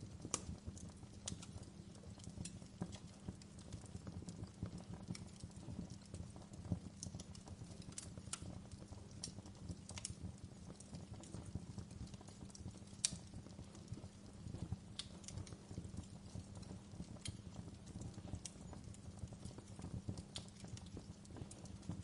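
Wood fire crackling: irregular sharp pops and snaps over a low, steady rumble, with one louder pop about 13 seconds in.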